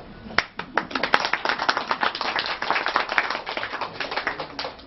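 Audience applauding: a few single claps at first, then many hands clapping together, thinning out near the end.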